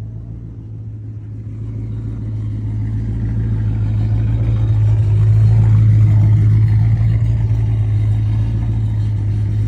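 Ford Crown Victoria's 4.6 L V8 and drivetrain heard from inside the cabin while driving. It grows louder over the first few seconds as the car picks up speed, then holds a steady low drone.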